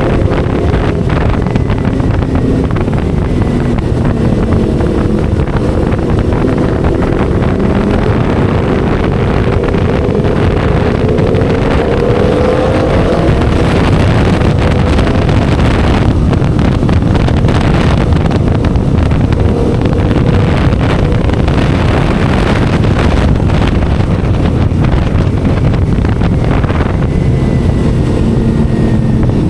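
Motorcycle engine and exhaust heard while riding, with wind buffeting the microphone. The engine pitch climbs steadily over several seconds as it accelerates, then holds.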